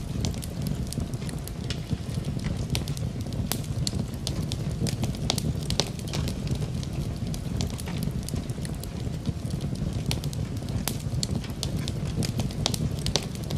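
Wood fire crackling in a fireplace, with frequent sharp, irregular pops and snaps over a steady low rumble and an even rush of rain.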